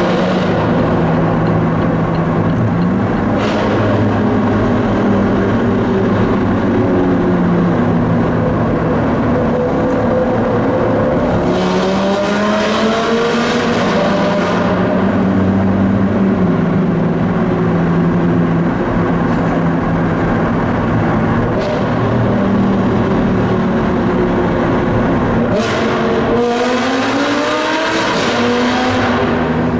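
Sports car engines running hard in a road tunnel, heard from inside a following car: a steady engine drone, with the Armytrix-exhausted Lamborghini Gallardo LP560-4 ahead revving up, rising in pitch about twelve seconds in and again near the end, and a few sharp cracks.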